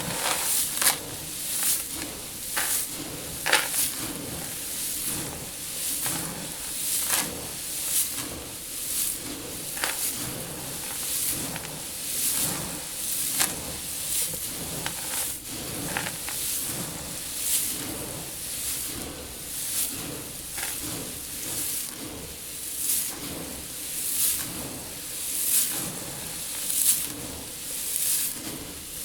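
Loose seed in a seed tank being stirred and shifted, a rustling hiss of pouring grains in repeated swishes about once a second.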